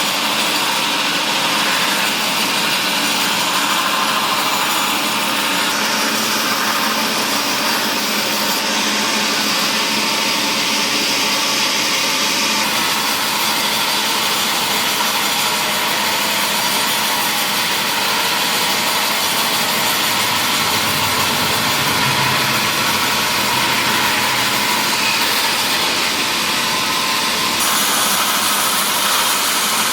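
Sawmill saw cutting mahogany wood: a loud, steady, continuous cutting noise.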